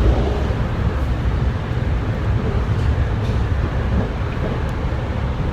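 Steady low rumble of a BART train running on the track, heard from inside a passenger car.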